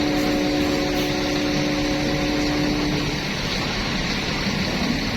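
A bus engine running amid road traffic, with a held chord of several steady tones over it until about three seconds in, then only the engine and traffic noise.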